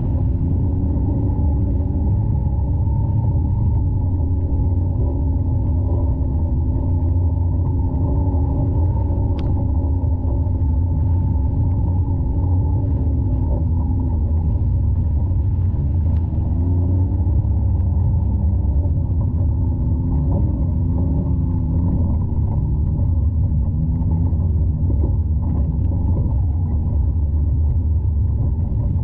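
Can-Am X3 side-by-side's turbocharged three-cylinder engine running steadily while driving, with a deep rumble under it. The engine note wavers slightly in pitch, and the sound is muffled with little high end.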